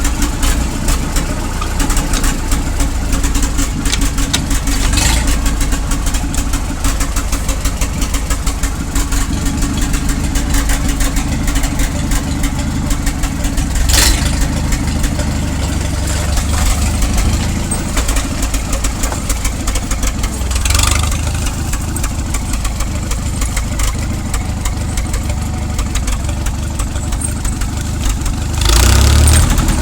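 Tractor engine running steadily, getting louder and heavier near the end as it picks up speed.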